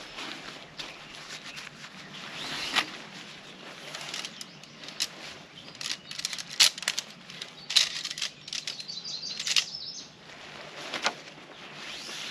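Tent being set up: nylon tent fabric rustling and flapping, with irregular sharp clicks and clatters of the tent gear being handled.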